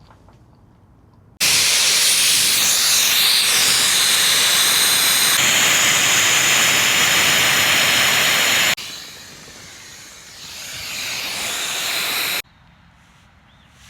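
Loud, steady hissing noise that starts suddenly about a second and a half in, drops to a softer hiss after about nine seconds, swells again and cuts off abruptly near twelve seconds.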